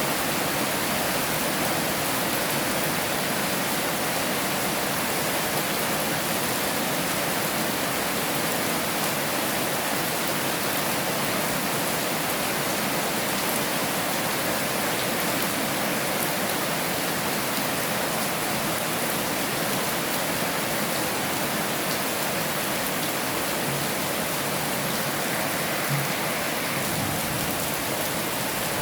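Heavy rain falling steadily, an even hiss with no breaks or changes in level.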